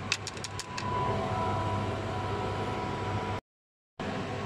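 A quick run of sharp clicks, about eight in the first second, from hand tools at work on the engine, over a steady background hum. The sound cuts out completely for half a second near the end.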